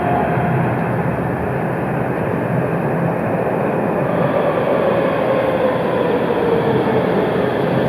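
Berlin tram running past with a steady rolling rumble, its motors whining in a tone that slowly falls over the last few seconds.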